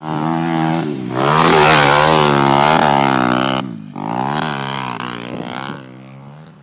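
Pit bike engine revving hard, its pitch rising and falling through the gears in two long runs with a short dip about three and a half seconds in, then fading away near the end.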